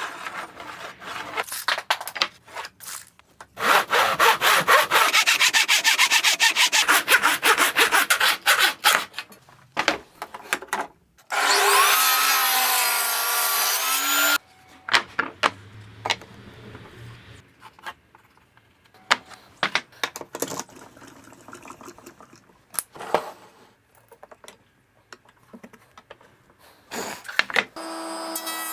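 Saw cutting wood in rapid strokes for several seconds. Then a power tool runs briefly with a wavering pitch and stops suddenly. Scattered knocks and taps of tools on wood follow.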